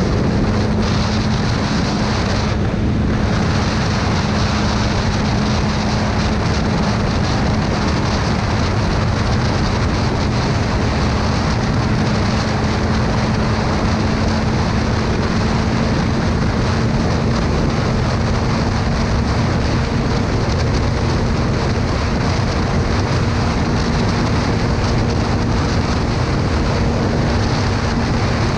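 Motorcycle riding at a steady cruising speed: a steady engine drone under heavy wind rush on the microphone.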